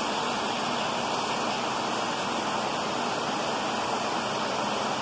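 Heavy rain falling, a dense steady hiss with no breaks.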